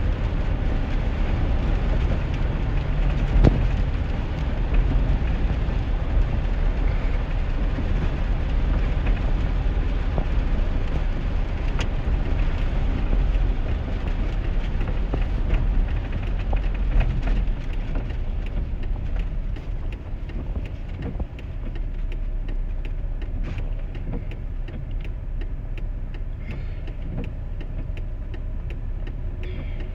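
Cabin road noise of a 2001 GMC Sierra pickup driving in the rain: a steady low rumble with a hiss of tyres on the wet road. The noise drops somewhat about two-thirds of the way through, and faint ticks come in over the later part.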